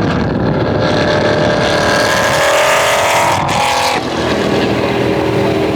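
Car engines running at high revs, with a sudden change in engine note about four seconds in.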